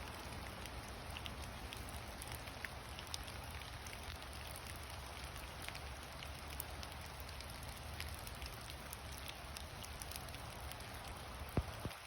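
Rain pattering steadily, with many scattered single drops ticking and one sharper drop near the end.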